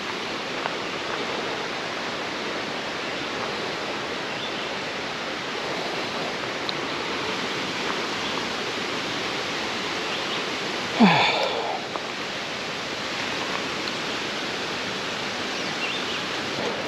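Steady rush of running water from a nearby mountain stream. About eleven seconds in there is a brief louder sound: a short human vocal sound whose pitch falls.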